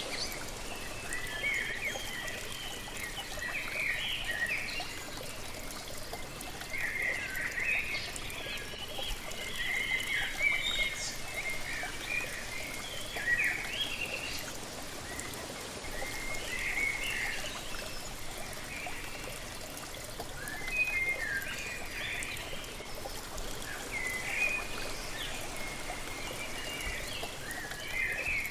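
Steady rush of a waterfall with birds singing, short phrases of chirps coming every few seconds.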